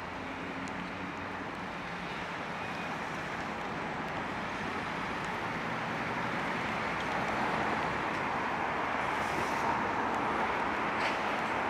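Road traffic on a rain-wet street: a steady hiss of tyres on wet tarmac that slowly grows louder.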